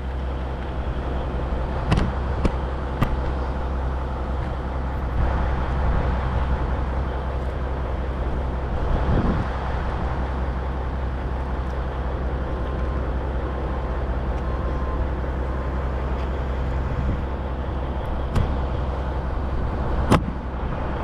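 Vehicle engine idling steadily, with a few sharp knocks scattered through.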